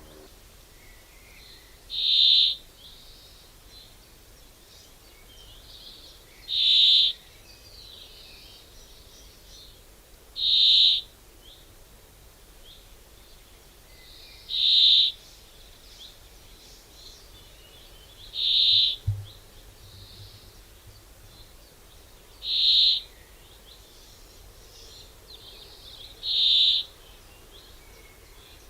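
A bird giving a short, high call over and over, seven times, about once every four seconds.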